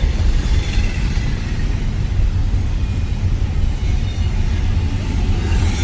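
Train passing with a steady low rumble.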